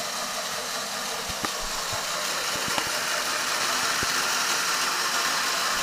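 Small electric motor of a Meccano model truck running steadily, whirring as it drives the wheels through its gearing, with a few clicks.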